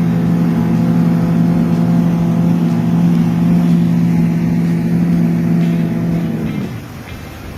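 An engine running hard at one steady speed, with a rushing noise over it. About six and a half seconds in, its pitch and level fall away as it slows.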